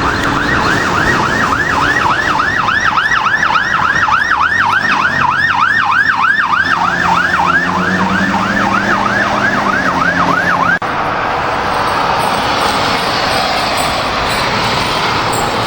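Emergency vehicle's electronic siren in a fast yelp, its pitch sweeping up and down about three times a second. About eleven seconds in it stops suddenly, leaving a steady rush of vehicle and road noise.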